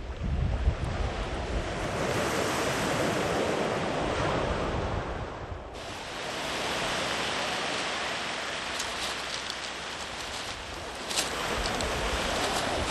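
Sea waves breaking and washing up the shore, the surf noise swelling and easing in long surges.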